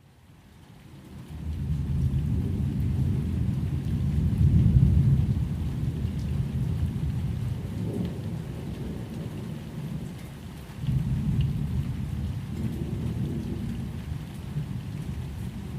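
Low rolling rumble of thunder with a faint hiss of rain, swelling about four seconds in and again near eleven seconds.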